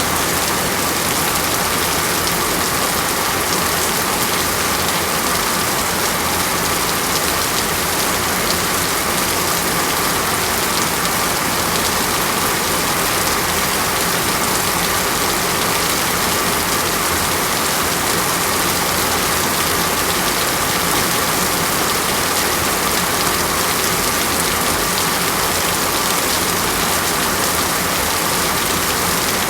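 Steady, unbroken rain falling on a surface, an even hiss with no gusts or thunder.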